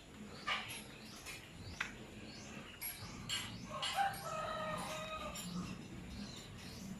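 A rooster crows once, a held call of about a second and a half starting about four seconds in, amid scattered short, sharp animal calls.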